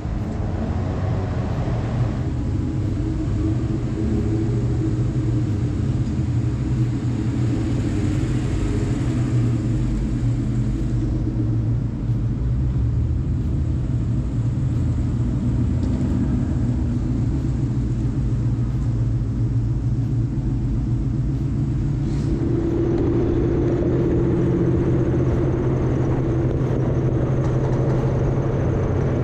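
Ford Mustang V8 engines running with a steady low rumble. The tone shifts about two-thirds of the way through, as another engine note comes in.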